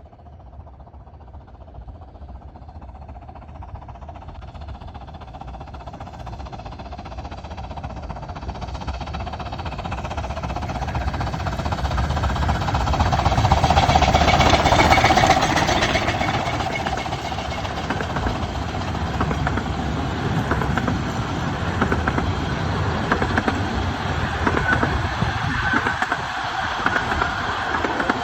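A 15-inch gauge miniature railway train approaching and passing, growing steadily louder to a peak about halfway through, then staying loud as it runs by.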